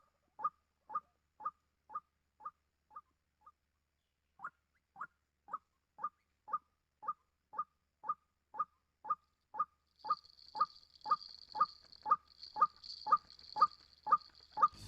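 White-breasted waterhen call, a short 'kwak' repeated about twice a second. It fades away, stops for about a second, then starts again and grows louder. About ten seconds in, a steady high hiss joins it.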